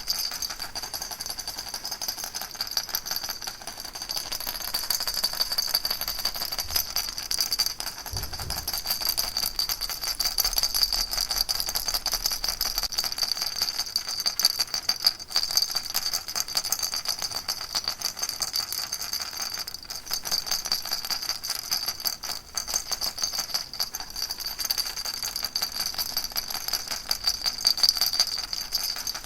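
Baby rattle shaken continuously: a dense, unbroken rattling of many small clicks with a high ringing tone, swelling and easing slightly in loudness.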